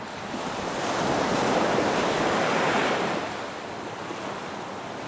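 Ocean waves breaking on a beach: one wave swells in, peaks about two seconds in and washes back out, with a steady surf hiss underneath.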